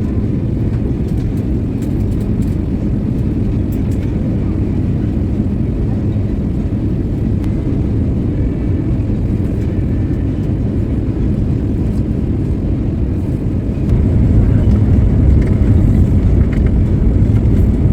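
Airliner cabin noise on a night approach: a steady low engine and airflow rumble that steps up in loudness about fourteen seconds in.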